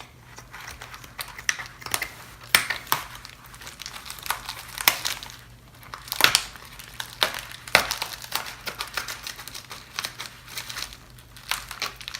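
A mailer envelope being opened and handled: irregular crinkling and crackling of the packaging, with sharp louder crackles every second or so.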